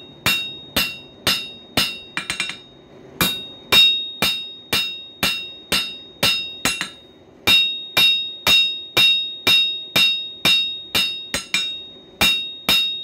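Blacksmith's hammer striking hot coil-spring steel on an anvil, about two blows a second, each ringing. A quick flurry of light taps about two seconds in, with a short break after it and another near the middle.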